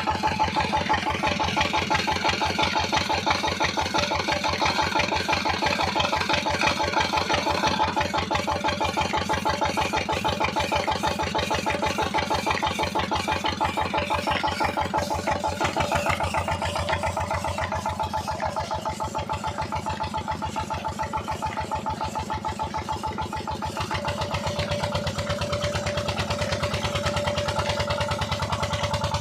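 An engine running steadily with a quick, even beat. Its higher-pitched noise drops away about halfway through, and a steady hum joins it near the end.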